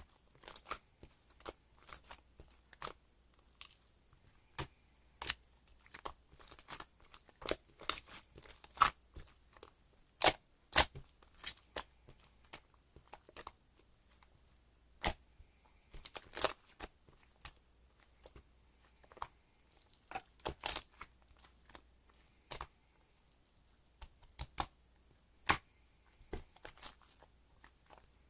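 Packaging crinkling and tearing amid irregular small clicks and taps, a few sharper ones standing out.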